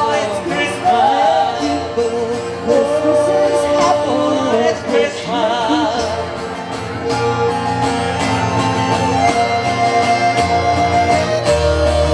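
Live band music at the close of a song. A melody line wavers with vibrato through the first half, then steadier held notes play over a bass line.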